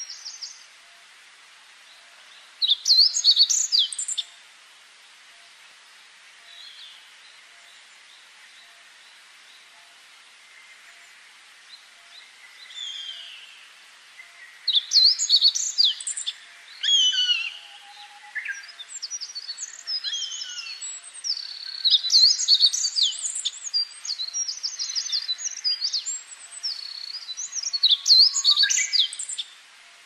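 Small songbirds calling and singing in several bursts of quick, high chirps and down-slurred whistles, with quieter gaps of faint hiss between the bursts.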